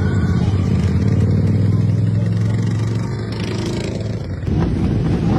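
Motorcycle engine running at a steady pitch for about three seconds, then easing off; a louder rushing noise comes in near the end.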